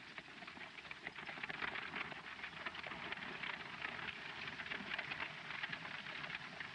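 Horses' hooves clattering as riders or a horse-drawn wagon arrive along a dirt street, heard as a dense, irregular crackling clatter.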